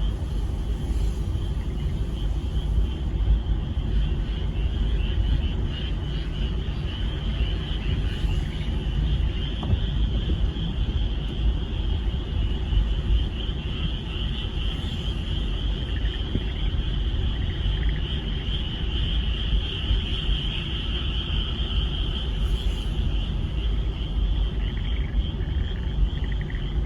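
A dense chorus of frogs calling continuously, a steady high band of overlapping calls that swells somewhat in the middle, over a constant low rumble.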